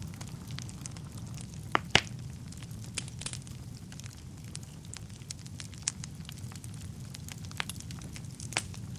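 Wood fire burning in a fireplace: a steady low rumble of flames with scattered sharp crackles and pops, the loudest a pair of pops about two seconds in.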